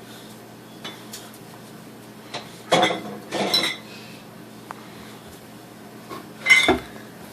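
Beer being stacked into a refrigerator: containers clinking and knocking against each other and the fridge shelves, a few light taps in the first couple of seconds, then louder clinks with a short ring about three seconds in and again near the end.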